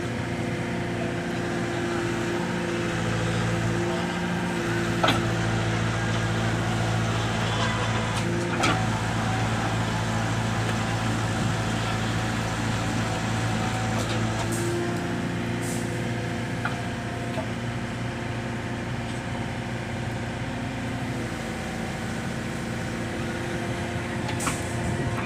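Mini excavator's engine running steadily, with a few sharp knocks now and then.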